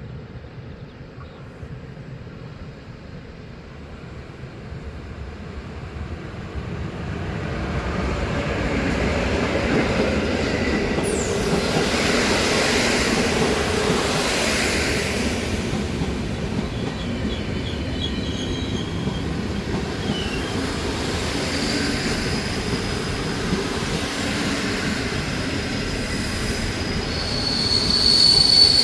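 Train running through the station on the rails, growing louder over the first several seconds into a steady rolling rumble. A high wheel squeal sets in near the end.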